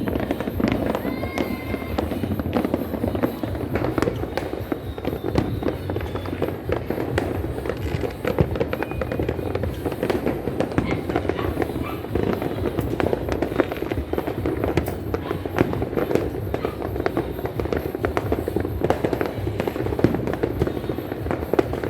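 Firecrackers and fireworks going off non-stop, a dense, continuous crackle of many pops and bangs with no pause.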